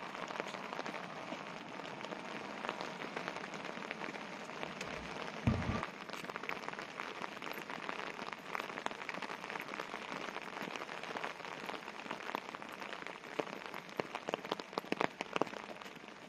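Rain falling on a wet paved path: a steady hiss speckled with small drop ticks. There is a brief low thump about five and a half seconds in.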